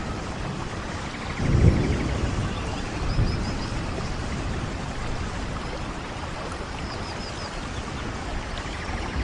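Steady rainfall, with a short low thump about a second and a half in and a smaller one a little later.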